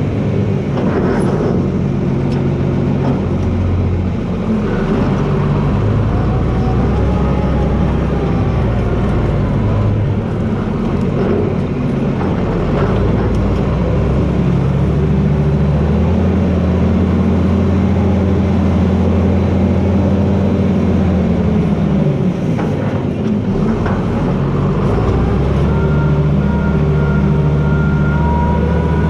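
John Deere 4320 tractor's six-cylinder diesel engine running hard under changing load, its pitch sagging and recovering as the blade pushes, with a dip about three-quarters of the way through. A few sharp cracks sound over the engine.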